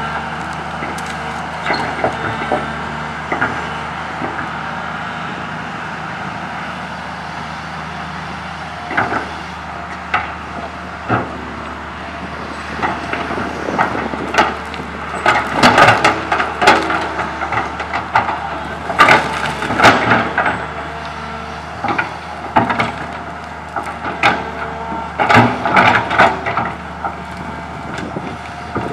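Komatsu PC200 excavator's diesel engine running steadily while tree branches crack and snap in its bucket as they are scooped up and dropped into a dump truck. The snapping comes in loud clusters in the second half.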